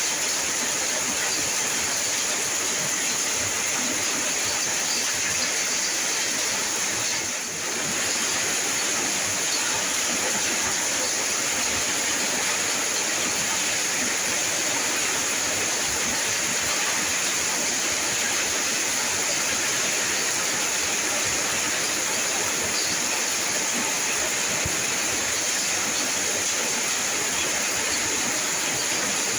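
Steady rain, an even hiss, dipping briefly about seven seconds in.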